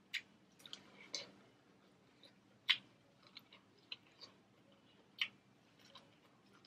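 Close-up eating sounds of corn on the cob from a seafood boil being bitten off the cob and chewed: a series of crisp, irregular clicks and crunches, the two loudest about two and a half and five seconds in.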